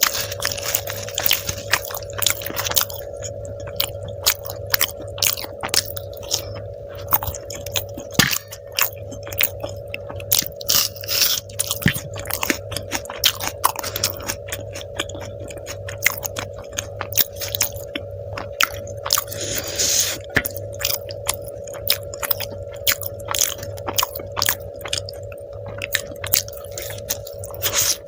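Close-miked chewing and biting of a person eating, many short irregular mouth clicks and smacks. A steady hum runs underneath.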